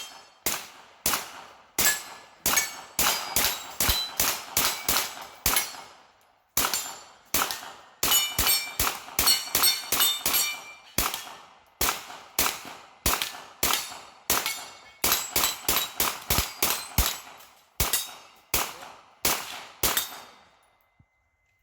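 Rapid string of gunshots in a steel shooting stage, with steel target plates ringing as they are hit. There is a short pause about six seconds in, and the firing stops about twenty seconds in.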